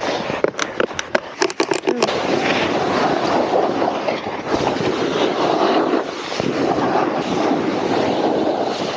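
A few sharp knocks in the first two seconds, then the steady rushing scrape of a snowboard sliding and turning through soft, powdery snow on moguls.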